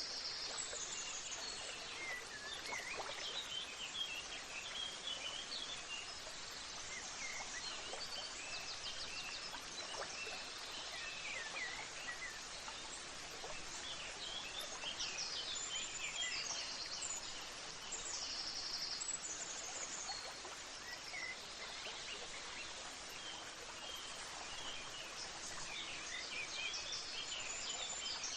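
Several birds chirping and trilling over a steady background hiss of outdoor ambience.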